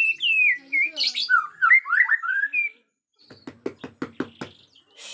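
Bornean shama (murai batu Borneo) singing agitatedly: a string of loud, clear whistled notes that slide down and up. After a short pause comes a quick run of about ten clicks.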